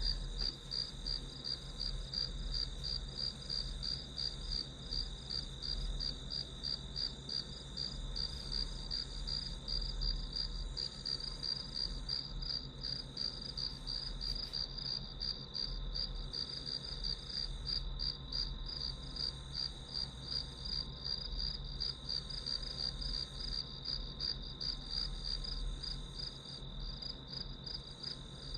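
Crickets chirping in a steady chorus: a rapid, evenly pulsing high chirp over a continuous high trill.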